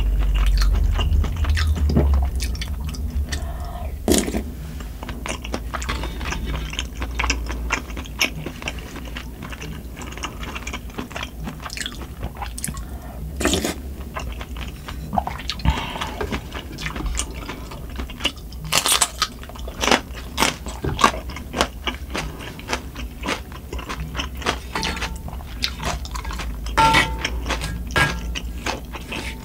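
Close-up mouth sounds of eating sundae gukbap (Korean blood-sausage and pork soup): wet chewing with many small crunches and clicks. A low steady hum underneath comes from wind and rain outside, and near the end the spoon knocks a few times in the pan.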